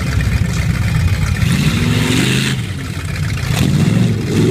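Race truck's engine revving hard: the pitch climbs about one and a half seconds in, falls off sharply around the middle, then climbs again near the end.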